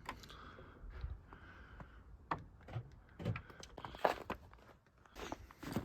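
Footsteps with handling noise: a string of irregular soft crunches and knocks, the loudest about four seconds in.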